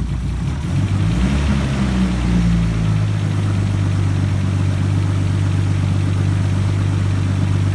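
Nissan RB20DET turbocharged straight-six engine brought up from idle about a second in, wavering in speed briefly, then held steady at a raised speed. This is the running condition around 2,000 rpm where the owner hears a knock-like noise that coil swaps have not cured; he wonders whether it is rod knock, spark knock or lifter knock.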